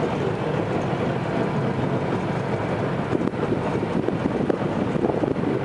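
Jet boat engine running steadily, a constant mechanical hum under a broad rushing noise.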